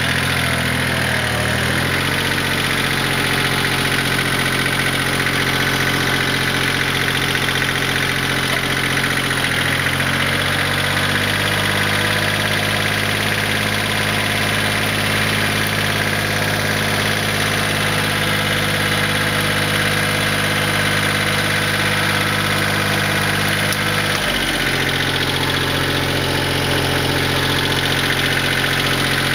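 Kioti LB1914 compact tractor's three-cylinder diesel engine running steadily; its speed rises around ten seconds in and falls back about twenty-four seconds in.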